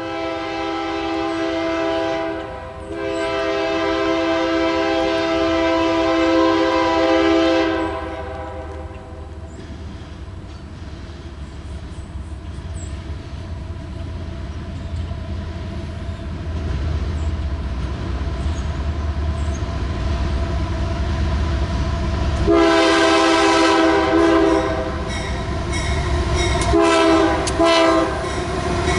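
Freight locomotive air horn sounding a chord in two long blasts, broken briefly, then falling silent about eight seconds in while the train's low rumble goes on. The horn sounds again near the end: one longer blast followed by a few short ones.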